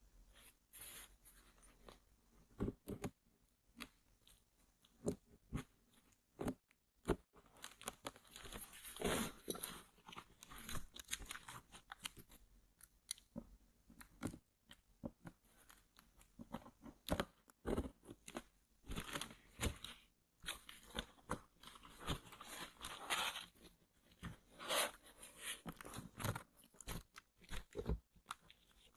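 Close-miked handling of headphone packaging: irregular taps, scratches and crinkly rustling on cardboard and packing material, coming in uneven clusters.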